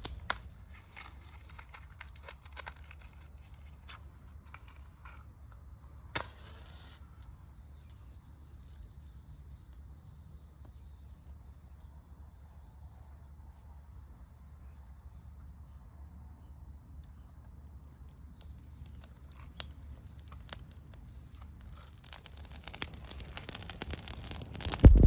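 Faint, steady high-pitched insect chirping over a low outdoor rumble, with a few sharp clicks. Near the end, loud rustling and crackling noise rises.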